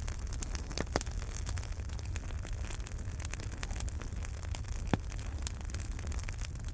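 Fireplace fire crackling: a dense run of small crackles over a low steady rumble, with two louder pops, one about a second in and one near five seconds.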